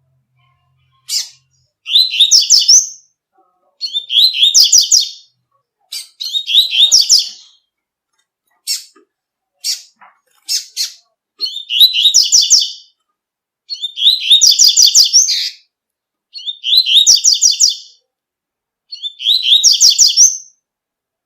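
Double-collared seedeater (coleiro) singing its 'tui-tui' song: high-pitched phrases of quick repeated notes, each about a second long, coming every two seconds or so, with single sharp notes between them.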